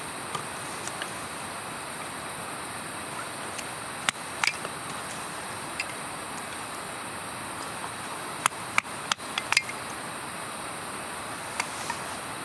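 Scattered sharp knocks and clicks, a few in quick clusters about four and nine seconds in, over a steady hiss.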